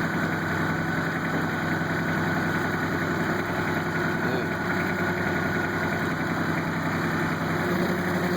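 Kubota tractor's diesel engine running at a steady speed, with no revving.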